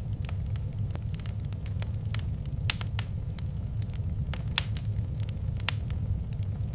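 Wood fire in a fireplace crackling, with many small sharp pops and a few louder snaps over a steady low rumble.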